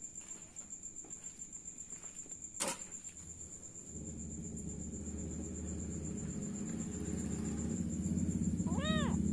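A cricket's high, steady pulsing trill, with a sharp click about two and a half seconds in. From about four seconds a low rumble builds up, and near the end a cat gives one short meow that rises and falls in pitch.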